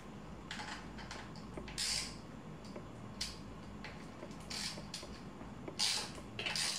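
Bicycle parts being handled and fitted during assembly: short, irregular creaks and scrapes, about seven in all.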